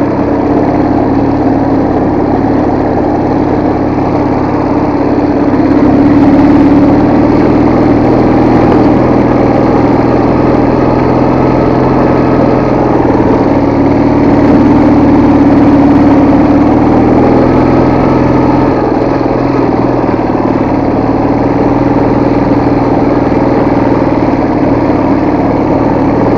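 Soviet motorcycle engine running steadily, swelling slightly about six seconds in and again around fifteen seconds in.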